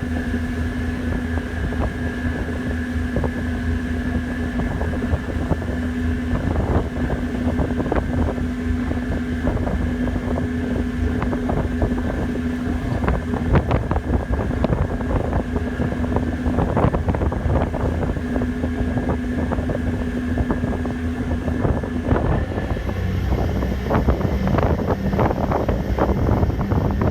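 A passenger ferry's engines drone steadily under wind buffeting the microphone. About 23 seconds in, the engine note drops lower.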